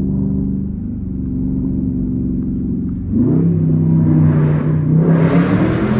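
2014 Jeep Grand Cherokee's 5.7-litre Hemi V8 through a straight-pipe exhaust, running steadily at low revs. About three seconds in, the engine note rises in pitch and gets much louder as it accelerates hard.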